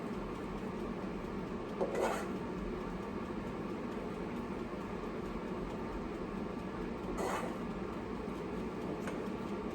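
Steady hum of a running kitchen appliance, with two short noisy sounds, one about two seconds in and another about seven seconds in.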